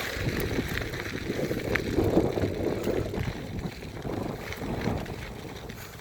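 Mountain bike being ridden over a dirt trail, heard through a handlebar-mounted phone: wind buffets the microphone while the tyres and bike rattle irregularly over the ground.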